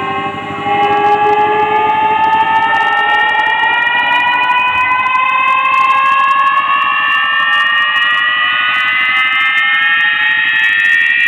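Loud electronic siren-like tone played through a large sound system during a sound check, several pitches climbing slowly and steadily together.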